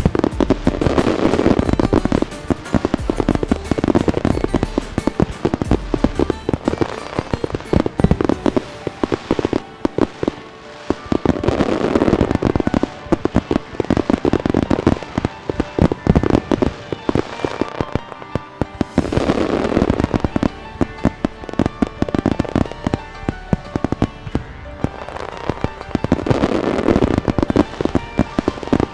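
Large fireworks display: many rapid bangs and crackles, with music playing along.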